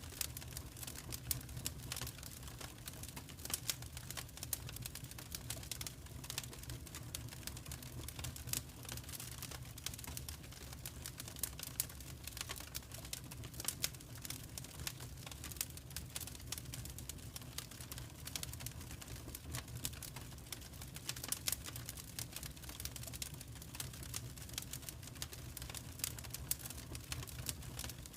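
Wood fire crackling in a fireplace: dense, irregular sharp snaps and pops over a low, steady rumble.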